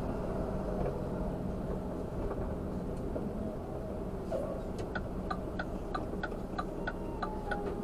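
Truck cab with the engine rumbling low and steady; about five seconds in the turn signal starts clicking, about three clicks a second.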